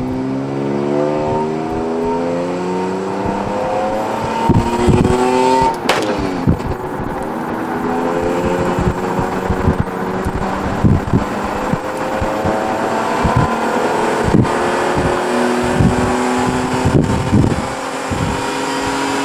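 Honda J35A4 3.5-litre V6 in a 2004 Odyssey, heard from inside the cabin, pulling hard at full throttle on a test pull of a new ECU tune. The engine note climbs steadily in pitch, drops at an upshift about six seconds in, then climbs again. Short thumps are scattered throughout.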